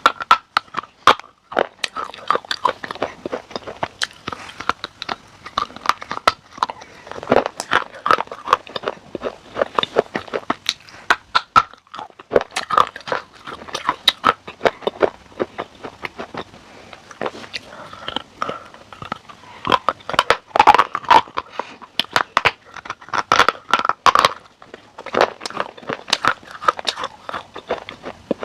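Close-miked biting and chewing of something hard and crunchy: a rapid, irregular run of sharp cracks and crackles, with denser bursts of crunching about two-thirds of the way in.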